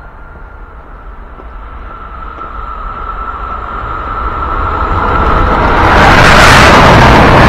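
Frecciabianca passenger train approaching and running through the station without stopping. A thin steady whine comes first and the noise grows steadily, turning into a loud rush about six seconds in as the locomotive passes close by.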